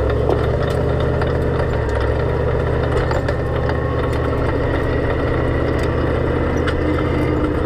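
Race car engine running at a steady pitch, heard from inside the cockpit while lapping the track, with a brief dip about two seconds in.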